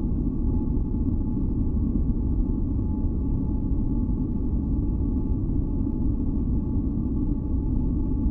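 Steady, deep masking noise from a sleep-sound track, low-pitched rather than hissy, with faint steady tones above it. It does not change.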